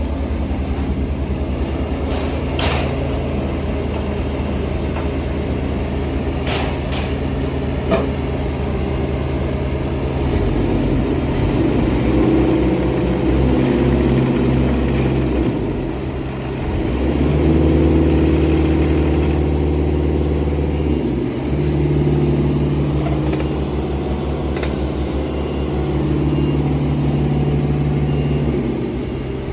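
JCB 16C-1 mini excavator's diesel engine running, its note growing louder and dropping back several times, with a few sharp knocks in the first eight seconds.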